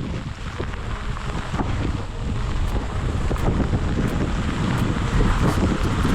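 Wind buffeting the microphone: a steady rushing noise with a low rumble, growing louder toward the end.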